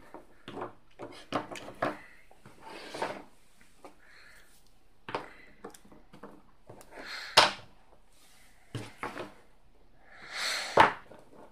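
Dwarven Forge cavern terrain pieces being handled and set down one against another: a series of clicks and knocks with a few short sliding sounds, the loudest clacks about seven and a half and eleven seconds in.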